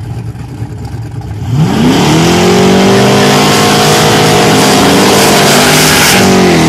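Vehicle engine accelerating hard at full throttle. It starts low, its pitch climbs steeply about a second and a half in and then holds high and loud, with a short dip in pitch near the end.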